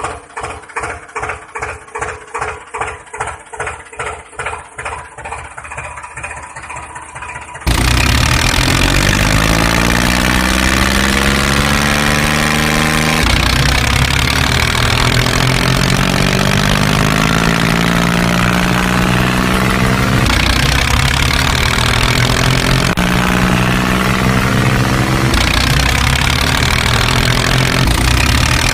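Tractor engine sound, thudding at about three beats a second. About eight seconds in it jumps suddenly to a much louder running engine whose pitch swells and falls repeatedly.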